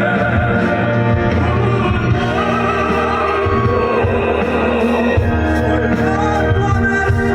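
Loud live concert music through a PA system: an instrumental passage of a classical-crossover ballad between sung lines, with a heavy pulsing bass and held, wavering melody notes.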